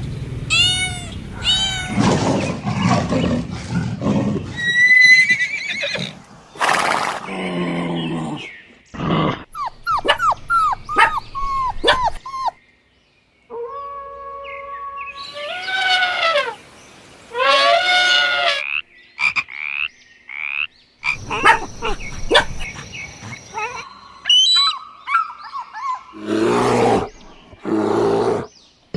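A string of different farm and domestic animal calls, one short clip after another, each with its own pitch and rhythm, with a brief silent break about halfway through.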